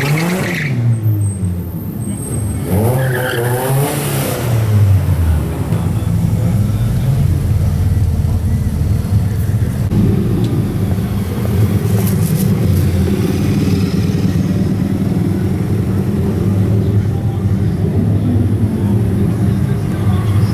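Sports car engines running at low revs as the cars creep past in a slow procession, with engine revs rising and falling in the first few seconds, then a steady low engine rumble.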